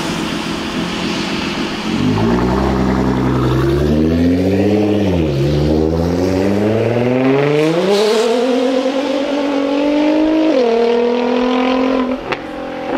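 Nissan R35 GT-R's twin-turbo V6, with a decatted Meisterschaft exhaust, accelerating hard away. The engine note climbs in pitch, dropping at an upshift about five seconds in and again about ten and a half seconds in.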